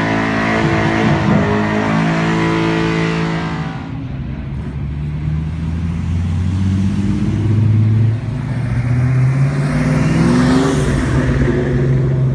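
Ford Mustang's engine held at high revs, dropping off sharply at about four seconds. It runs lower, then revs up again near the end.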